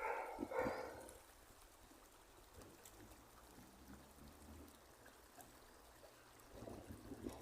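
Faint running water trickling and pouring steadily, with a short louder sound in the first second.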